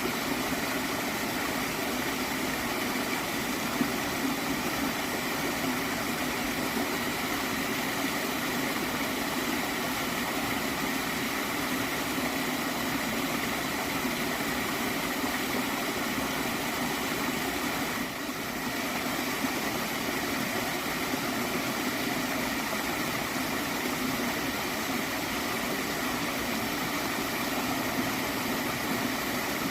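A gentle stream of water flowing and gurgling, a steady, unbroken rush.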